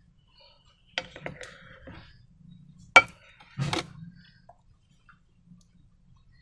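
Slime and balloon handling: a few sharp clicks and crackles about a second in, a loud sharp snap about three seconds in, then a short crackling squish.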